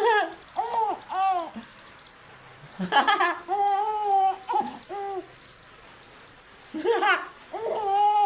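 Baby babbling and cooing: short rising-and-falling voice sounds, a longer drawn-out one in the middle, and more toward the end.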